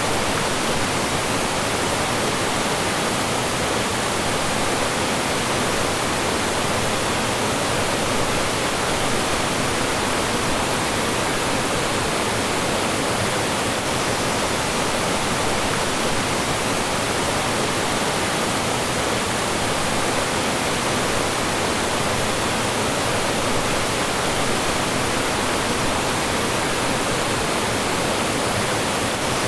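Mountain stream rushing over rocks and small falls, a steady full rush of water.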